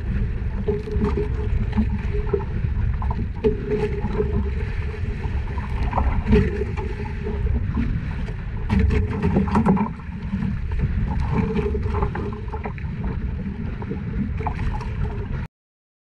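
Small fishing boat under way at sea, its motor running as a steady low rumble mixed with wind and water noise and occasional knocks; the sound cuts off suddenly near the end.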